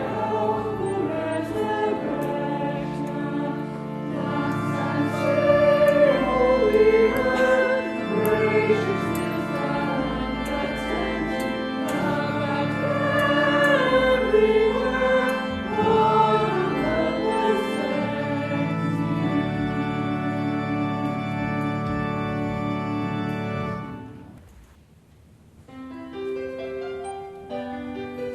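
Church choir singing with sustained low accompaniment. The music ends about 24 seconds in, and after a short pause a piano begins playing single notes.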